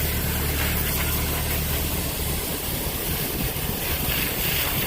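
Garden hose nozzle spraying a jet of water onto an outdoor air-conditioner condenser's coils: a steady hiss of spray. A low hum sits under it and fades about two seconds in.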